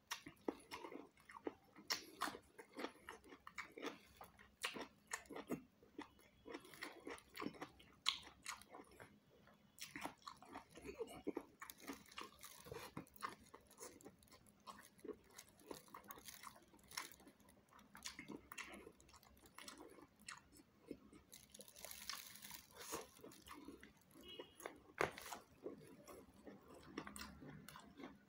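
A person chewing and biting into raw cucumber and carrot slices, with faint, irregular short crunches and mouth sounds throughout.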